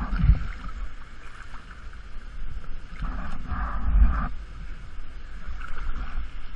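Rushing, churning water of a waterfall's plunge pool, with low rumbling buffets and a louder surge of water about three to four seconds in.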